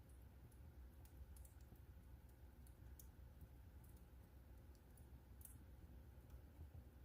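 Wood fire in a fireplace crackling faintly: about a dozen small, sharp crackles at irregular moments over a low steady rumble.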